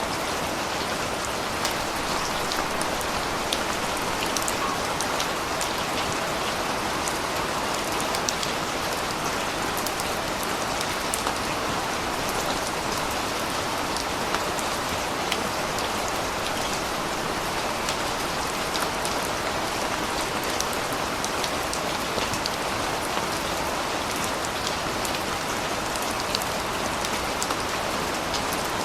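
Steady rain falling and pattering on surfaces, with many small drop ticks scattered through it.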